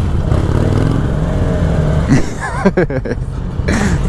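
Vehicle engines running with a steady low rumble, and a person's voice heard briefly about two seconds in and again near the end.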